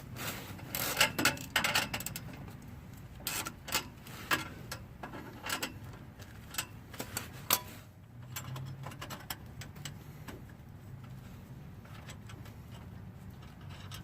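Irregular metallic clicks and clinks from a hand wrench and an exhaust pipe clamp being worked on, thickest over the first eight seconds and sparser after.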